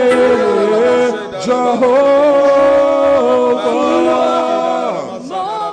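A voice singing slow, drawn-out notes of a worship song, with the pitch sliding down about five seconds in.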